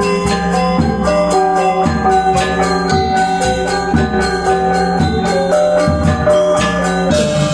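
Balinese gamelan gong orchestra playing: bronze metallophones and gong chimes struck in fast, dense patterns over ringing held tones, with regular low drum or gong strokes underneath.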